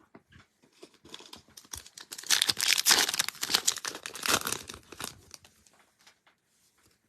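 Plastic trading card pack wrapper being torn open and crinkled: a dense crackling that starts about a second in, is loudest in the middle, and dies away after about five seconds.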